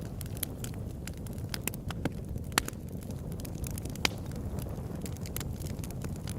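Wood fire crackling: irregular sharp pops and snaps over a steady low rumble, with two louder pops about two and a half and four seconds in.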